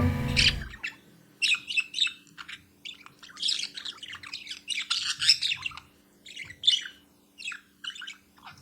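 Birds chirping and twittering in quick, irregular bursts, over a faint steady low hum.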